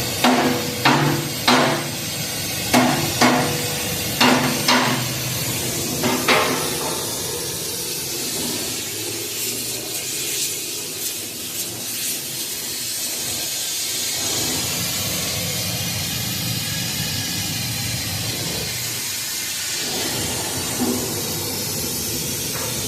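Steady hiss of an oxygen-propane rosebud heating torch, with about eight ringing hammer blows on steel in the first six seconds.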